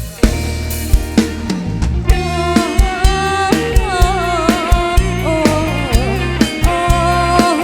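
Live band music: a drum kit hitting a steady beat over a bass line, with a wavering melodic lead, sung or played, entering about two and a half seconds in.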